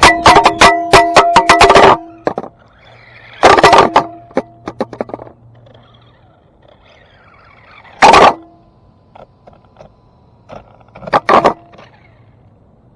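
Electric RC drift car with a 3800 kV brushless motor, driven in short throttle bursts close by, each burst loud and distorted: a long run of bursts in the first two seconds, then shorter ones, the last near the end.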